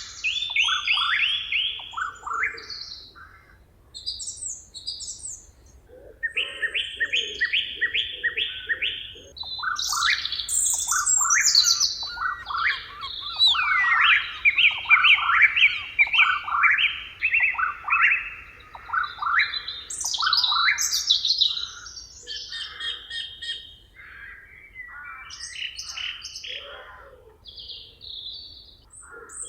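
Several birds singing and calling over one another, with fast runs of repeated chirps and high, quick whistled notes. There is a short lull a few seconds in.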